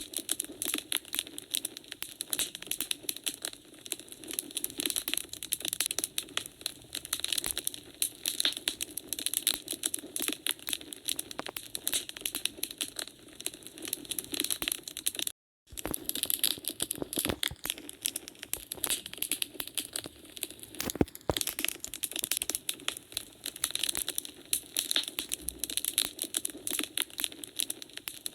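Wood fire in a fireplace crackling, with dense, irregular pops and snaps over a soft hiss. About halfway through, the sound cuts out completely for a moment, then carries on.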